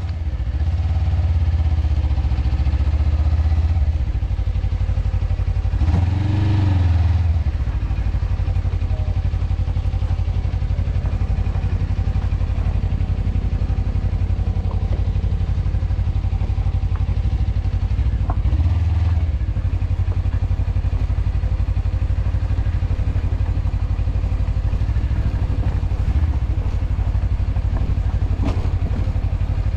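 Motorcycle engine running steadily under way, with a heavy low rumble from wind on the microphone and brief swells in the engine sound twice.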